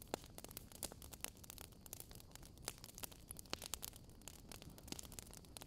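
Faint wind noise on the microphone: a low, uneven rumble with scattered irregular crackles and clicks.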